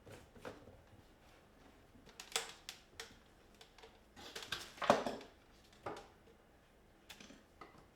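Scattered light clicks and knocks of a spoon and dishes during a meal, the loudest about five seconds in.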